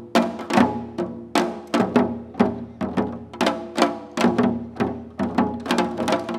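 Janggu (Korean hourglass drum) ensemble playing a seoljanggu piece: sharp stick cracks mixed with rounder drum-head strokes in a quick, uneven rhythm of about three strokes a second.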